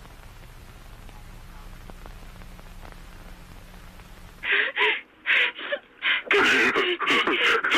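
Faint steady hiss and low hum, then about four and a half seconds in a person's voice with a muffled, cut-off top starts in short gasping pulses, about three a second, that run into continuous distressed vocalizing.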